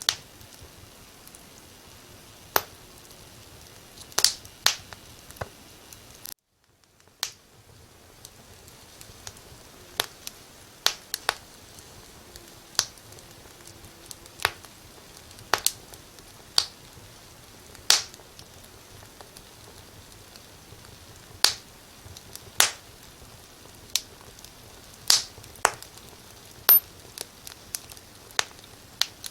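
Wood fire crackling: sharp, irregular pops and snaps, a few of them loud, over a steady hiss. The sound cuts out for about a second some six seconds in, then fades back.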